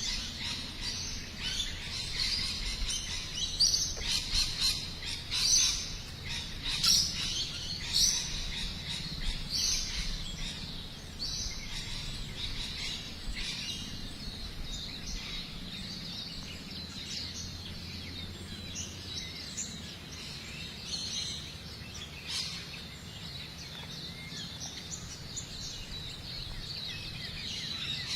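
Birds chirping and singing: a run of short, repeated high calls, loudest through the first ten seconds or so, then fainter, over a faint outdoor background.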